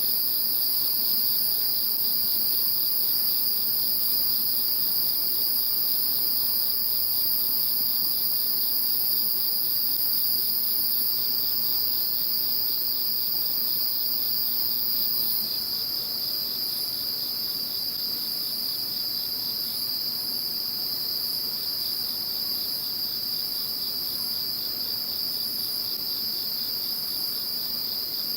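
A chorus of insects calling: a steady, unbroken high trill, with a second, higher-pitched layer of buzzing above it.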